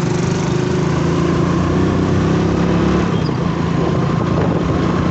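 Motorcycle engine running at a fairly steady pitch while riding, under a steady rushing noise.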